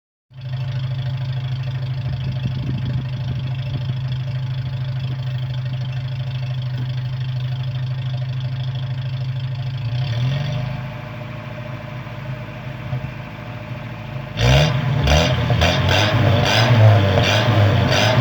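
Toyota 22RE 2.4-litre four-cylinder engine starting up and running at a steady note for about ten seconds, dropping back to a quieter idle, then revved repeatedly in quick blips from about fourteen seconds in.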